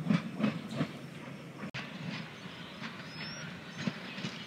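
A train going by, with a rhythmic beat of about three strokes a second that fades after the first second, leaving a quieter running rumble.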